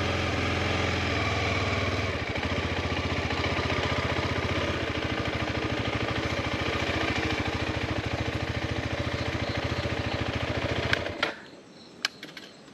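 Motorcycle engine running steadily with a fast even beat, then switched off about eleven seconds in; a few small clicks follow in the quiet.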